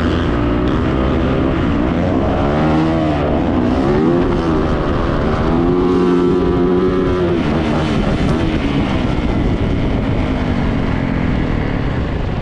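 Yamaha YZ450F dirt bike's single-cylinder four-stroke engine running hard on a trail ride, its pitch rising and falling repeatedly with the throttle.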